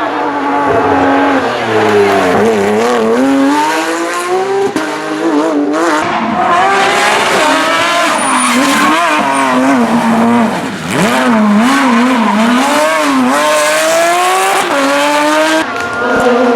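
Porsche 911 GT3 flat-six engine driven hard on a rally stage, its revs climbing and dropping again and again through gear changes and corners.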